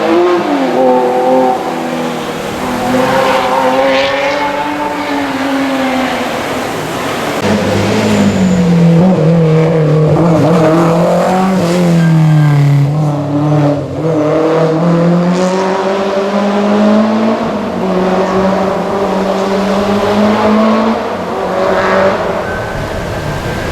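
Historic rally car engine revving hard on a stage, its pitch repeatedly climbing and dropping as the car accelerates and lifts.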